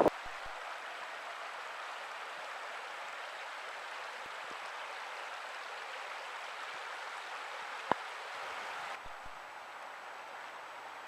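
River water flowing, a steady rush of moving water. A single sharp click comes about eight seconds in, and the sound drops a little in level shortly after.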